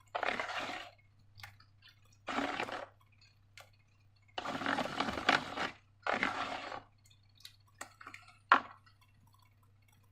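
Wet slime being squished and worked by hand, in four short bursts, with a sharp click near the end and a faint steady low hum underneath.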